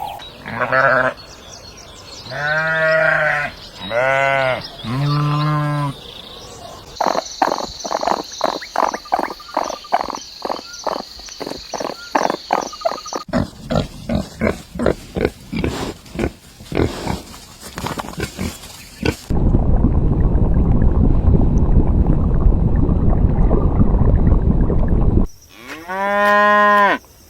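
Cattle mooing, several calls of about a second each in the first six seconds and another near the end. Between them come about twelve seconds of fast rhythmic pulses and then about six seconds of loud steady rushing noise, their sources unclear.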